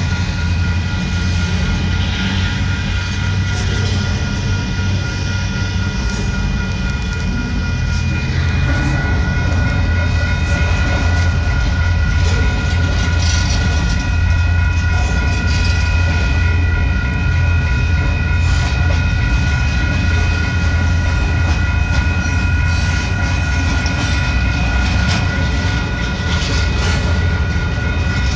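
Double-stack container freight train rolling steadily through a grade crossing: a continuous low rumble and clatter of the well cars, with faint wheel clicks. Steady high-pitched tones sound over it and grow stronger about eight seconds in.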